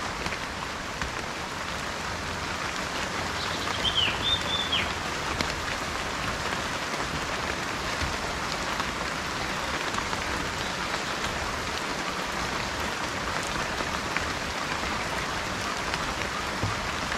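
Steady rain falling, an even hiss throughout. A bird gives one short call about four seconds in.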